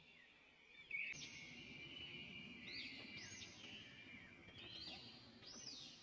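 Faint birdsong: high whistled notes that sweep up and down, repeated every second or two, over a low steady background hiss.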